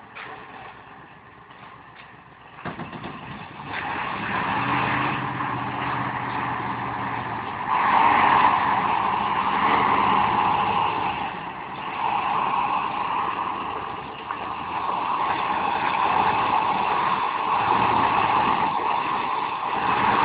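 Motor vehicle running: engine and road noise, quiet at first and getting much louder about three seconds in, then staying loud with some swells.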